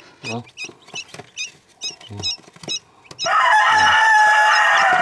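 Newly hatched quail chicks peeping in short, high cheeps; about three seconds in, a fowl crows loudly in one long call, falling slightly in pitch.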